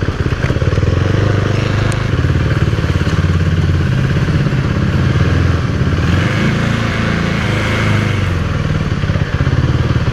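KTM 390 Duke's single-cylinder engine running at low revs, its pitch shifting up and down a few times in the middle.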